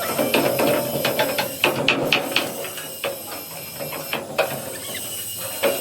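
Metalworking noise: a steady hiss with many irregular sharp metallic clicks and knocks, densest in the first half or so.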